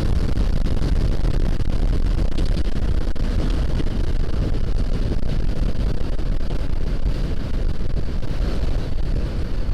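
Wind buffeting the action camera's microphone while riding, with a Honda CBR500R's parallel-twin engine running steadily underneath at cruising speed.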